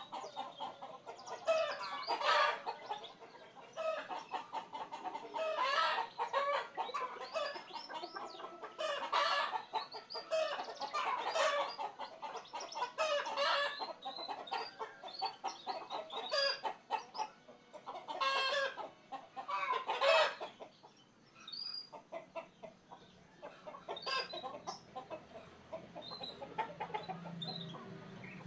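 Chickens clucking in repeated bursts every couple of seconds, thinning out to fainter calls after about twenty seconds.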